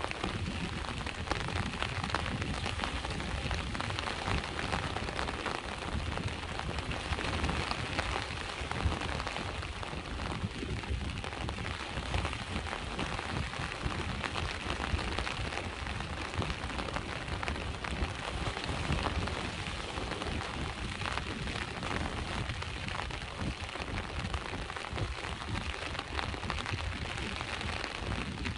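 Steady rain pattering, dense with small drop ticks, over a low wash of sea waves.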